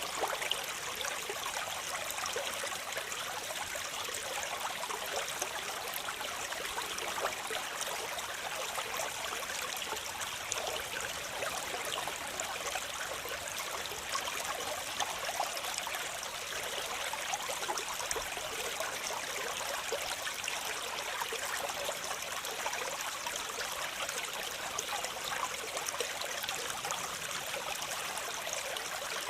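Waterfall: a steady, even rush of falling and splashing water, bright and hissy, with little low rumble.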